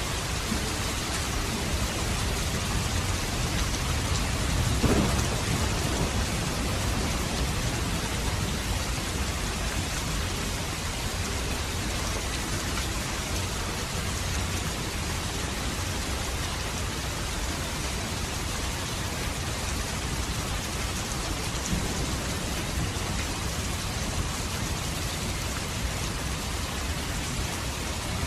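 Steady rain falling as a continuous even hiss, with a brief louder low rumble about five seconds in.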